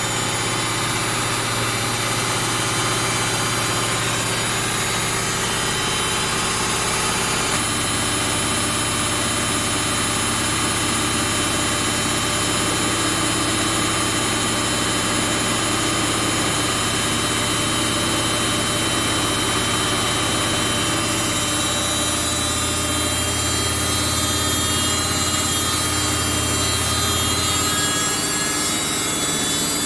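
Samsung front-load washing machine drum spinning in its rinse-and-spin cycle: a steady running hum with vibration, which the owner puts down to the machine not being level. The low hum changes for several seconds after about 21 seconds in, then settles back.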